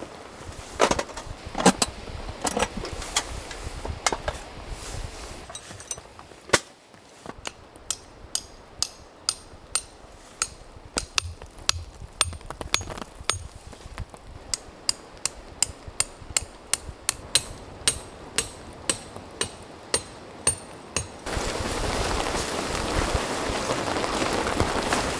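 Repeated sharp metallic strikes, about three a second, each with a brief high ring, after a few scattered knocks. Near the end steady rain starts abruptly.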